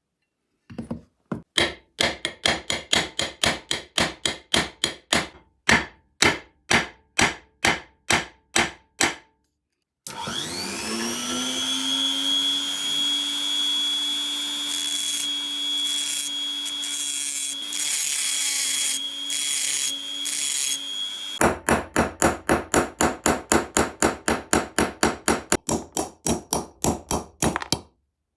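Hand-tool work on old iron: a run of sharp repeated strokes, then an electric drill spins up and runs steadily for about eleven seconds, as is done to drill out rusted pins. After the drill stops comes a faster, even run of strokes.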